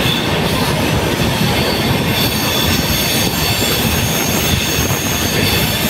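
Loud, steady rumble and clatter of a moving passenger train heard from an open coach doorway, with a continuous high-pitched squeal from the wheels on the rails over it.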